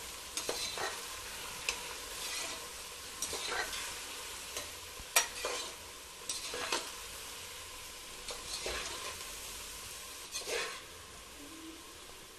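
Sliced onions, green chillies, coriander and mint frying in oil in a pressure cooker, stirred with a perforated metal ladle: a steady sizzle with irregular scrapes and clicks of the ladle against the pot, the sharpest about five seconds in. The onions are being sautéed until they turn glassy.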